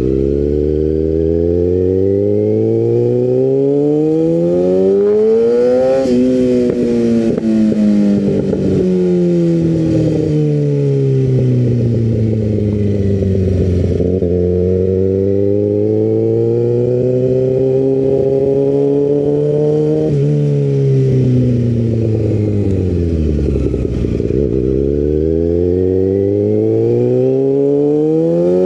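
Motorcycle engine heard from the rider's seat, its revs climbing and falling as the bike accelerates and slows. The pitch rises to a peak about six seconds in, sinks slowly, climbs again until it drops sharply near twenty seconds, then sinks and climbs once more near the end.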